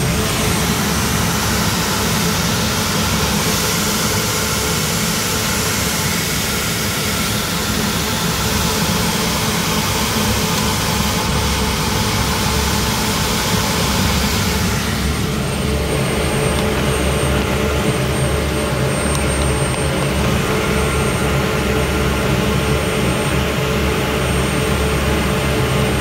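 Steady roar of a steam boiler's forced-draught burner firing, with a low hum underneath; the hiss in the upper range drops a little about halfway through.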